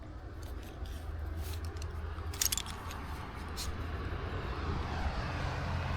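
Metal rope-rigging hardware such as carabiners and pulleys clinking a few times, sharpest about two and a half seconds in, over a steady low rumble.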